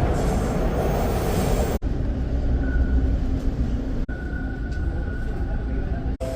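Subway train running: steady rumble and rail noise, broken off abruptly three times by cuts between clips, with a faint steady whine in the later part.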